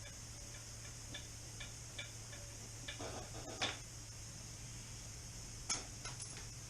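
Light metallic ticks and clicks of hand tools working bolts on the car, with a run of small even ticks in the first few seconds and two sharper clinks, about three and a half seconds in and near the end, over a steady low hum.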